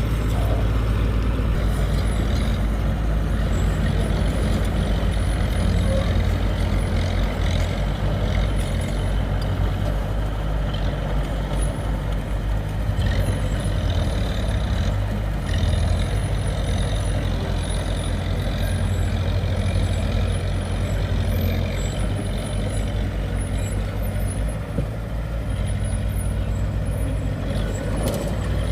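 Diesel engine of heavy earthmoving machinery running steadily, a continuous low drone that hardly changes.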